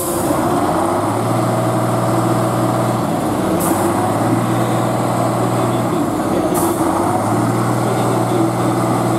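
Truck engine running hard in steady stretches of a couple of seconds, its note dipping briefly between them, with two short hisses about three seconds apart.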